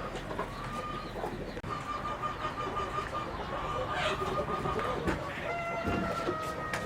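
Chickens clucking and calling together, with several long, steady high-pitched calls held for about a second each.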